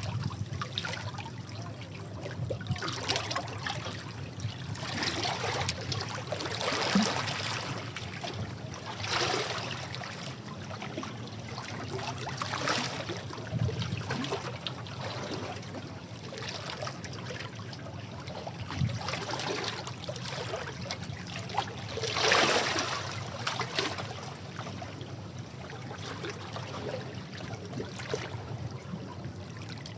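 Sea waves washing over rocks: a steady wash of water with irregular surges of splashing and trickling every few seconds, the strongest a little past the middle.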